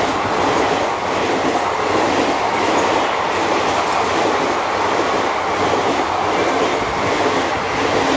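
Express passenger train, the 12191 Shridham Express, running through a station at speed: a loud, steady rush and rattle of the coaches' wheels on the rails.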